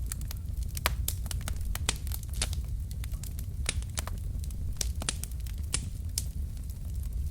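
Logs burning in a fireplace, crackling with many irregular sharp snaps and pops over a steady low rumble of the flames.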